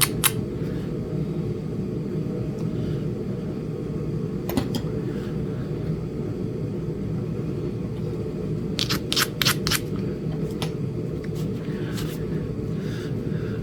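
Sharp clicks of flintknapping on a Flint Ridge chert biface: a few single strikes, then a quick cluster of four or five about nine seconds in, over a steady low hum.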